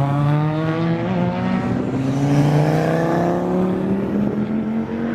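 Car engines running under load, one climbing steadily in pitch as it accelerates while lower engine notes hold steady beneath it.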